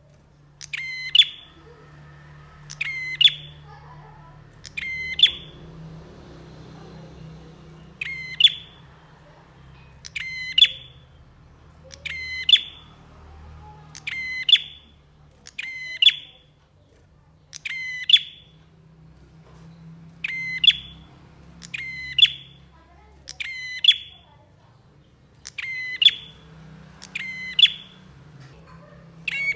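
Prenjak songbird calling: a short, sharp, rapid call phrase repeated about every two seconds, over a faint low hum.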